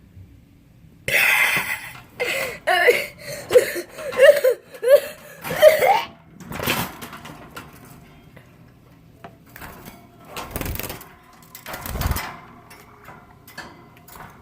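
A person's voice making a run of drawn-out, wavering vocal sounds, followed by a few scattered knocks and bumps.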